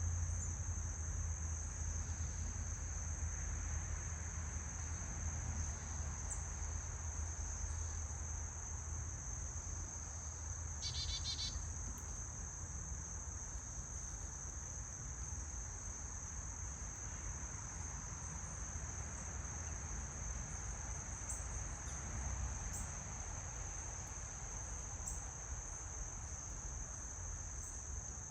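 Crickets singing an unbroken, steady, high-pitched trill, with a brief rapid pulsed call about eleven seconds in and a low outdoor rumble underneath.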